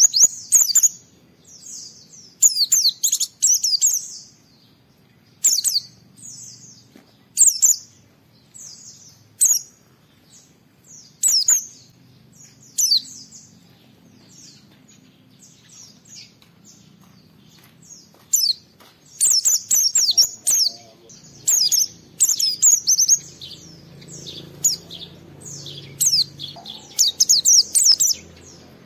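Pleci (white-eye) singing in quick bursts of high twittering chirps, a short phrase every second or two, coming faster and denser in the last third. The song is the bird's full, energetic challenge song.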